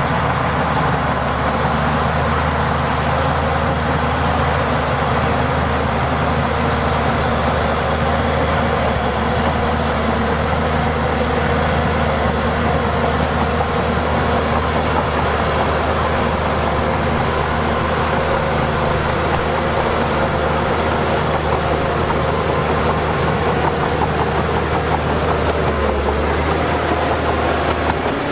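Heavy diesel earthmoving machinery, bulldozer and dump-truck engines, running steadily.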